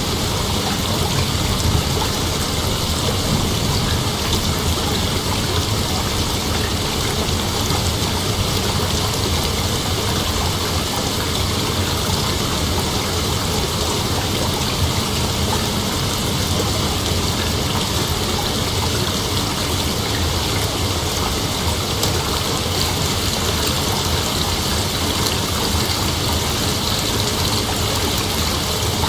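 Steady, unbroken chorus of night insects.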